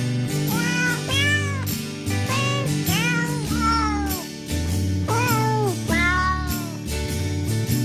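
About eight cat meows, each rising and falling in pitch, set against music with a bass line and a steady beat. The meows come in a melody-like sequence, as in a song built from cat meows.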